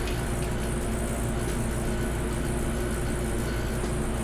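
Steady low machine hum, even and unchanging, with a deep bass drone and a few faint steady tones above it.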